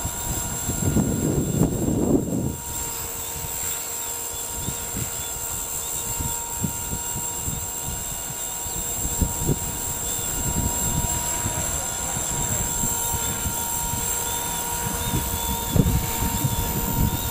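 Walkera V400D02 brushed-motor RC helicopter hovering, its motor and rotors giving a steady whine under heavy wind buffeting on the microphone. There is a louder gust in the first two seconds.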